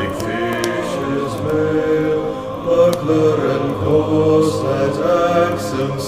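Chanted vocal music: low voices hold long notes that step slowly from one to the next over a steady low drone, without clear words.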